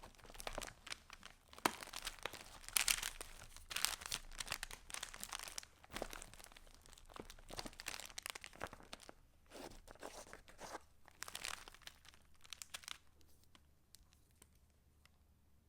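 Paper rustling and crinkling as the pages of a handmade junk journal are turned and handled, in a close run of irregular strokes. About two seconds before the end it dies down to a few faint clicks and ticks.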